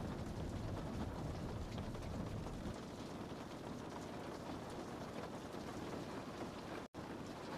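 Rain falling on a window pane: a steady hiss with many small drop ticks. A deeper low rumble under it eases off about three seconds in, and the sound cuts out for an instant near the end.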